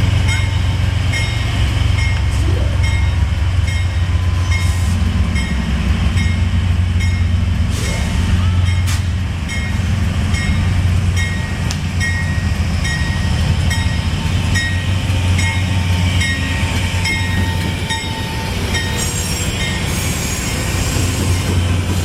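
Amtrak P40DC and P32-8WH diesel locomotives running with a steady low rumble, while a bell rings steadily, about one stroke every 0.6 seconds.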